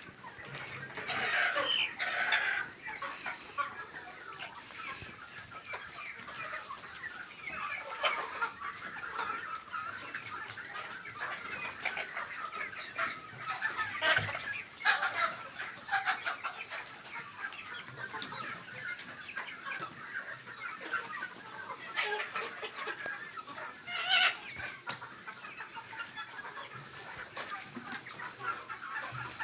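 A flock of Sonali chickens clucking continuously, many birds calling over one another, with a few louder calls standing out now and then.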